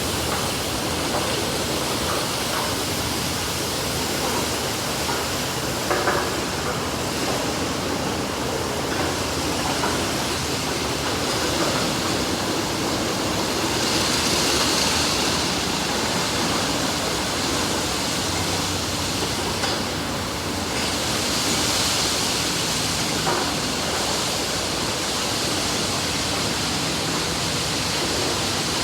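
Water jets spraying and drumming on a car inside a Sonny's tunnel car wash, a steady rush that swells into a louder hiss twice. A single knock comes about six seconds in.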